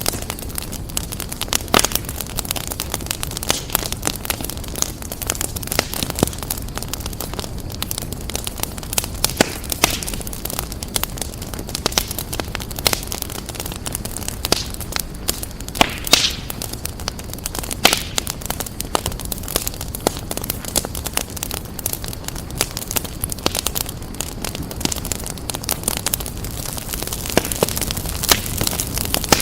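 Wood fire crackling steadily over a low rumble, with irregular sharp pops and snaps, a few louder ones scattered through.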